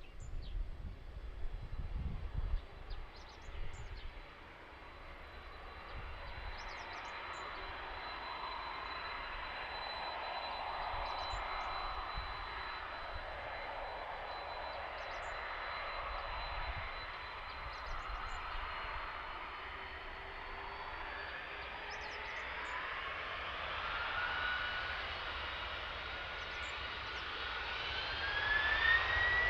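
Boeing 767-300ER's twin jet engines whining steadily, then rising in pitch and growing louder over the last several seconds as they spool up. Wind rumbles on the microphone in the first few seconds.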